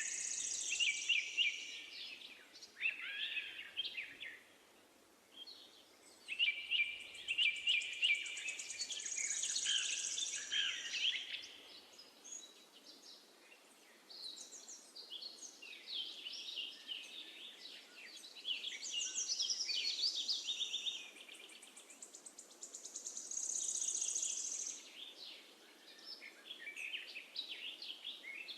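Songbirds singing in bouts of rapid chirps and trills, each a few seconds long with short pauses between, over a faint steady background hiss.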